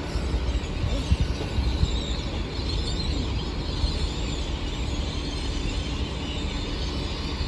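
Train at a station platform running with a steady low rumble, with a few short knocks about one to two seconds in.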